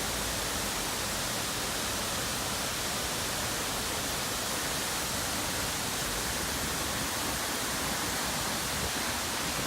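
Steady rushing water: an even, unbroken noise with no change in level.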